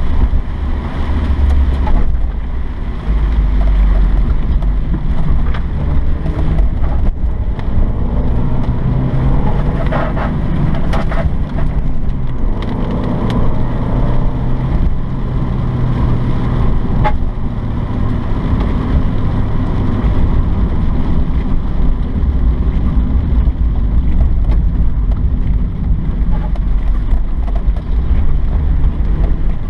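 1995 Mazda Miata's 1.8-litre four-cylinder engine running as the car is driven, its note shifting up and down, with a heavy low rumble of wind buffeting the microphone.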